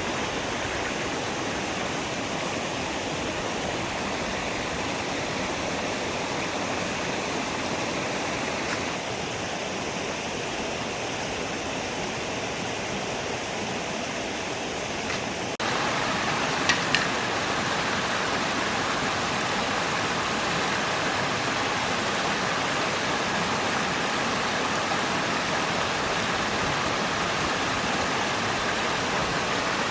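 Stream water rushing steadily. About halfway through, the rush jumps abruptly to a slightly louder, brighter sound, followed a second later by two brief faint ticks.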